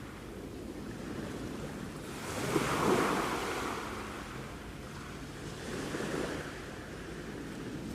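Sea waves washing onto the shore in slow swells, the largest surging and fading about two to three seconds in and a smaller one around six seconds, with some wind on the microphone.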